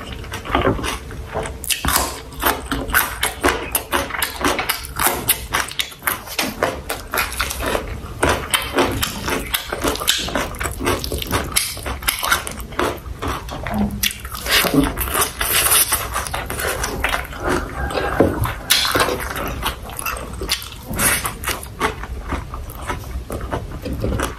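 Close-miked eating sounds of sausage, rice and vegetables: wet chewing and lip smacking, a steady run of quick irregular clicks and squelches.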